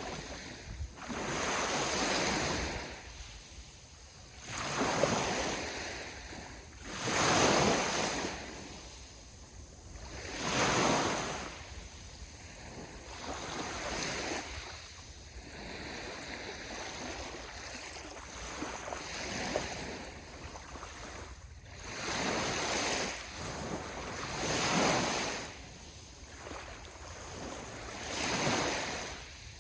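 Ocean waves breaking and washing on the shore, a rushing surge swelling and fading every few seconds.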